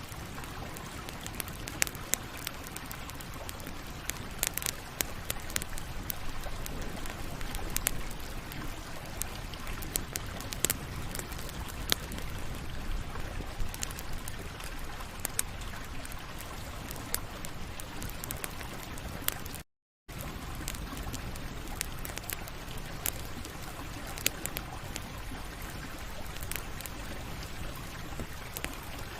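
Campfire burning: a steady low hiss with frequent sharp crackles and pops of burning wood. The sound cuts out completely for a split second about two-thirds of the way through.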